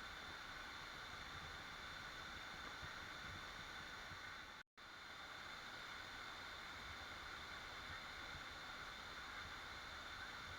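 Waterfall: a faint, steady rush of falling water that cuts out completely for a split second a little under halfway through, then resumes.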